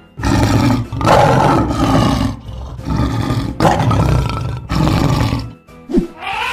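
Lion roaring: a run of several loud, deep roars one after another, dying away about five and a half seconds in.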